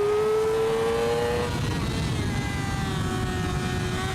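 Yamaha R6 600cc inline-four sport bike engine revving high under acceleration. Its pitch climbs for about a second and a half, then drops and holds lower, with a steady wind rush underneath.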